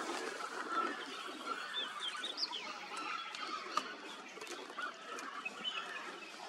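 Birds calling, with short chirps and a few quick rising whistles about two seconds in, over a steady background hiss. A sharp click stands out a little before the four-second mark.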